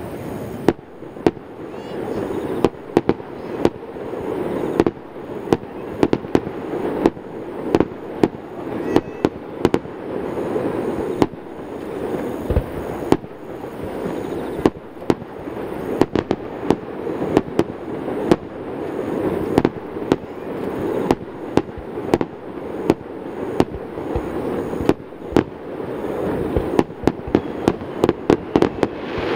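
Aerial fireworks display: a rapid, irregular run of sharp bangs from shells bursting, sometimes several a second, over a steady rushing noise. The bangs come in a quick cluster near the end.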